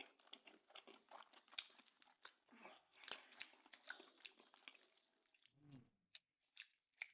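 Faint close-up chewing of a bread sandwich filled with stewed beef cheeks: irregular wet smacking and soft crunching bites, thinning out near the end, with a brief low hum about five and a half seconds in.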